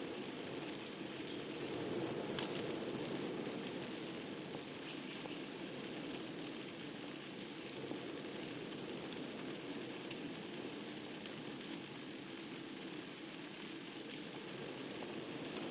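Wood fire burning in a fireplace: a steady low rush of flames with scattered sharp crackles and pops of burning logs, a few louder pops among them.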